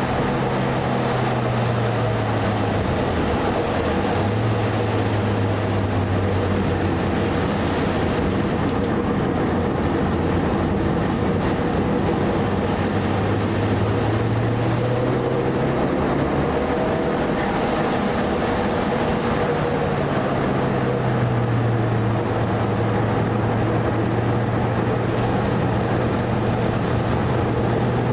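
Mitsubishi Lancer Evo IV's turbocharged four-cylinder engine heard from inside the cabin at speed, its note rising and falling several times through gear changes and braking, over a constant hiss of tyres and spray on a wet track.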